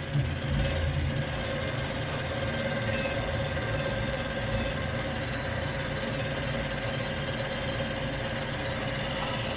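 Metal lathe turning a steel Dana 60 axle shaft while the cutting tool feeds into the shaft's soft core, below its induction-hardened layer. It is a steady machine drone with a steady whine running through it, a little louder about a second in.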